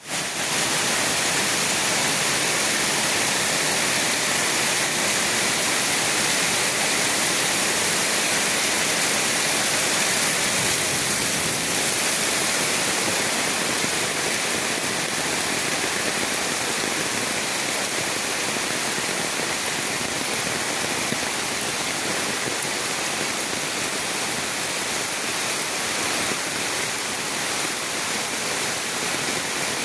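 Heavy storm rain pouring steadily, an even rushing hiss.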